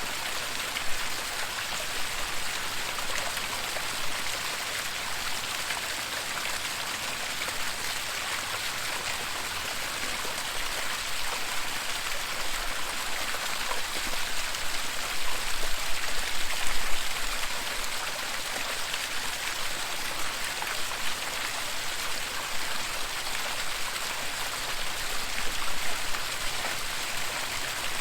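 Waterfall running steadily: an even hiss of falling and splashing water, a little louder about halfway through.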